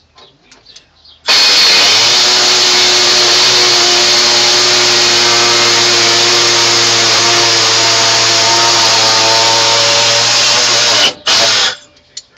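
Air-powered cutting tool running on compressed air, a loud steady hissing whine that starts about a second in and runs for about ten seconds. It cuts off briefly near the end, runs again for a moment and stops.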